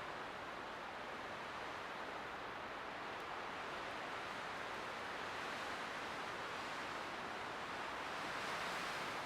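Light wind blowing as a steady soft rush that swells a little near the end.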